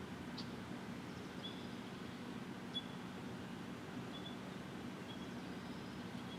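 Faint short bird chip notes, about five spread roughly a second apart, over a steady low hum, with a couple of faint clicks.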